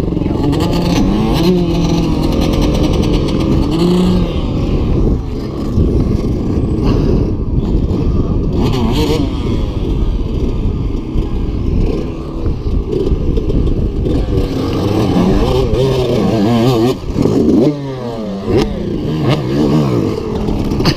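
Dirt bike engine revving as the bike works through a ditch, its pitch rising and falling over and over, with some clattering and scraping.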